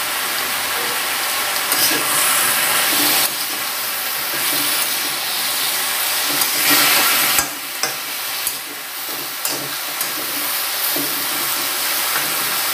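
Mixed vegetables sizzling in a kadai while a metal spatula stirs them, scraping the pan, with a few sharp knocks of the spatula against the pan about halfway through.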